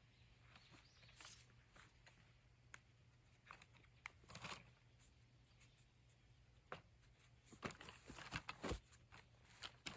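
Near silence with faint, scattered rustles and clicks of something being handled, coming more often in the last couple of seconds.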